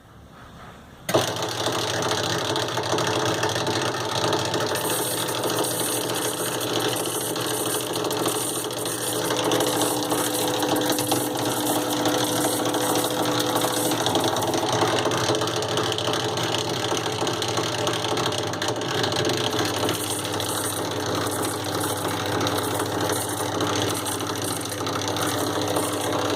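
Drean Excellent 166 TC washing machine running with a strange mechanical whirring rattle, switching on abruptly about a second in. The owner puts the noise down to a rusted motor shaft; the machine also fails to drain.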